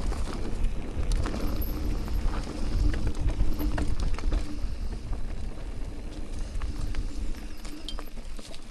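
Mountain bike rolling over a rough trail: tyres crunching over stones and roots with scattered knocks and rattles, and wind rumbling on the microphone. A faint steady hum comes and goes.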